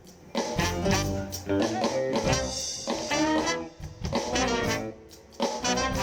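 Live soul band playing an instrumental passage between sung lines, in phrases with short breaks near the start and about five seconds in.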